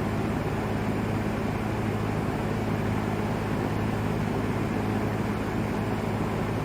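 Vintage LAU Ultra Twenty 20-inch box fan running steadily: a low motor hum under an even rush of air.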